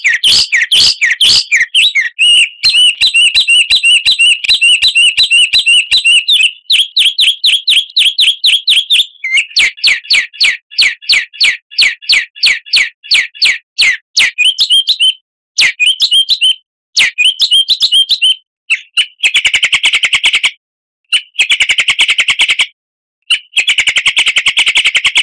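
Recorded songbird song used as a lure to set a caged bird singing: a fast series of sharp chirps, about five a second, that turns into buzzy rattling phrases broken by short pauses in the second half.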